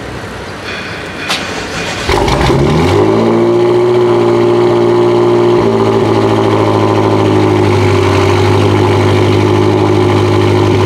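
BMW M5 F10's twin-turbo V8 with an Akrapovic exhaust, low on battery and jump-started from a booster pack, cold-starting: it fires about two seconds in, rising in pitch for a moment, then settles into a loud, steady idle that shifts slightly about halfway through.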